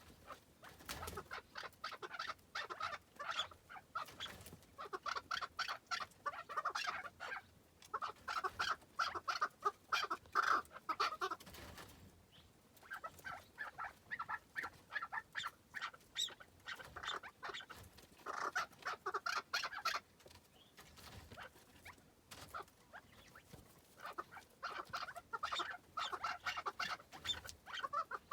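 Chukar partridge calling: bouts of rapid, repeated clucking notes, each bout a few seconds long, separated by short pauses.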